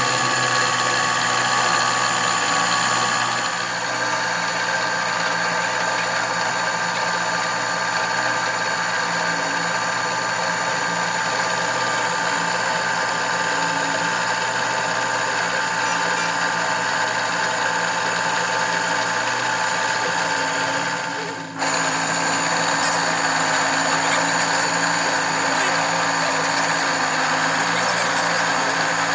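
Workshop machine tool running steadily with a constant whine of several fixed tones, dipping for an instant about three-quarters of the way through, during machining work on a camshaft.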